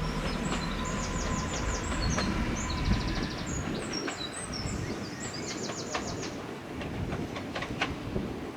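A train running by with a low rumble that fades away about halfway through, while a small songbird sings high chirps and rapid trills over it.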